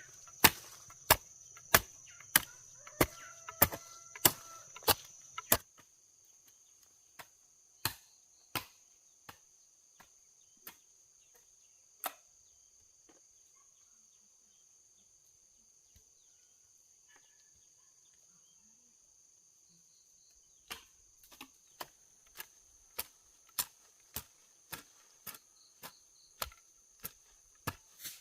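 Sharp chopping strikes, evenly spaced at a little under two a second. They thin out and stop for several seconds in the middle, then resume steadily near the end. Insects shrill steadily through the first few seconds.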